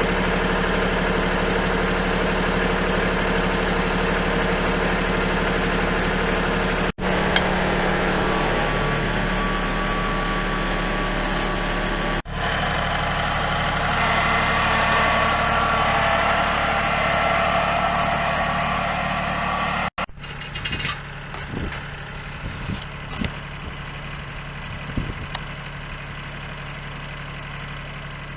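Kubota tractor's diesel engine running steadily, in several back-to-back clips, with the last stretch quieter and broken by a few short knocks.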